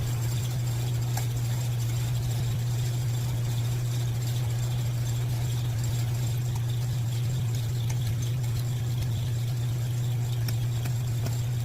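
Steady low mechanical hum at an even level, with a few faint light clicks.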